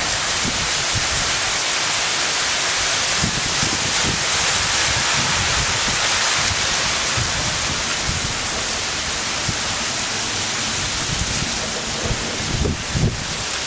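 Hailstorm: a dense, steady hiss of hail and rain falling, with scattered low thumps of stones striking and a few louder knocks near the end.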